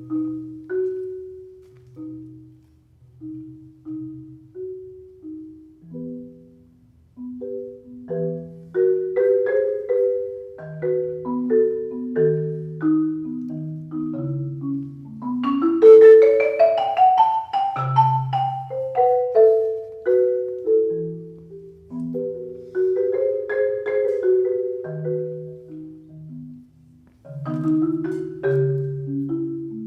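Mallet-instrument music with a marimba sound: slow single notes over low bass notes, with a quicker run that climbs to its highest, loudest notes about halfway through.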